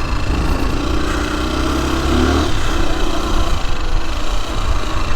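Motorcycle engine running steadily under way, its note shifting briefly about two seconds in.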